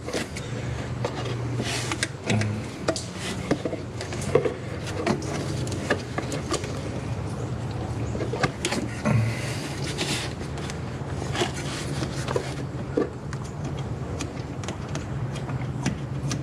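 Hand ratchet clicking in short irregular runs while long thermostat-housing bolts are backed out, over a steady low hum.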